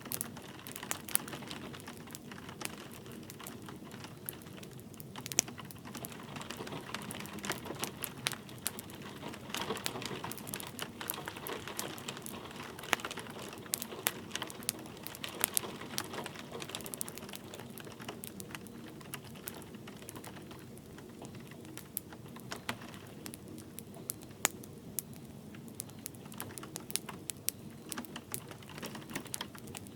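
Wood fire crackling with frequent irregular sharp pops, over a steady hiss of light rain.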